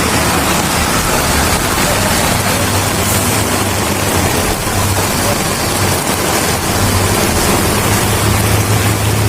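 Heavy rain pouring steadily, a loud even hiss with a low rumble underneath.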